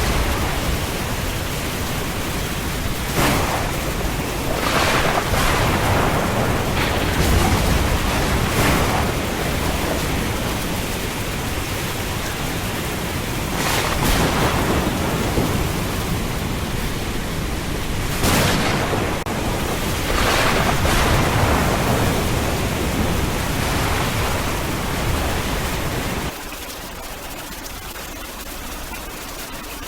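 Thunderstorm: heavy rain with repeated crashes of thunder over a low rumble. Near the end the rumble cuts off abruptly, leaving a thinner, quieter hiss of rain.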